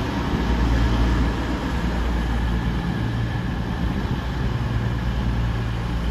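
A train running with a steady low hum and rumble, easing off a little after about a second.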